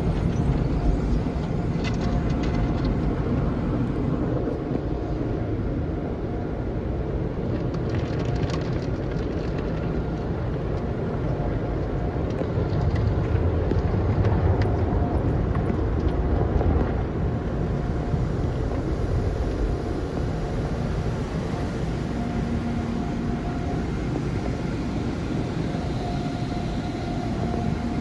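Automatic car wash machinery running: a steady low rumble with a faint hum, with no pauses.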